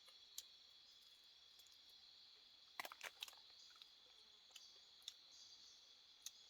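Faint steady high-pitched insect drone, with a few scattered light clicks or snaps, a small cluster of them about three seconds in.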